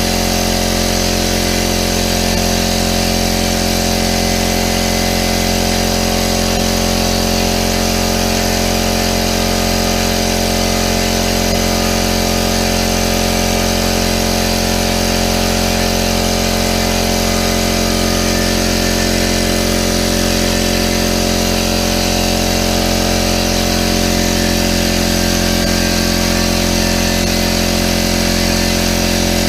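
Central Pneumatic electric air compressor running steadily as its pump fills the tank, the pressure climbing past 70 PSI toward 100 PSI. It is a constant mechanical hum.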